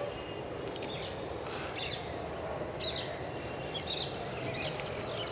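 Birds chirping in short, high calls about once a second over steady outdoor background noise.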